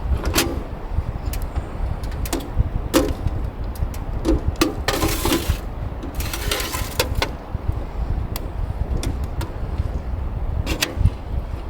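Strong sea wind buffeting the microphone as a low, gusting rumble, with scattered clicks and two short bursts of rustling about five and six and a half seconds in.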